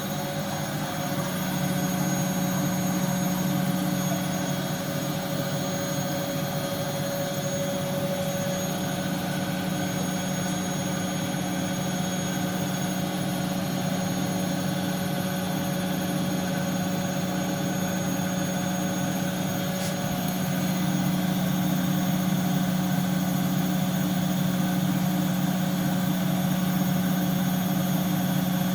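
Bosch washing machine running, its motor giving a steady hum with a fainter high whine over it, growing slightly louder about two-thirds of the way in.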